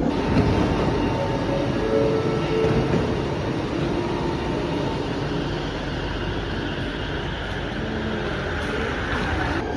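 Rail train in motion, heard from inside the carriage: a steady running rumble with a few faint whining tones over it.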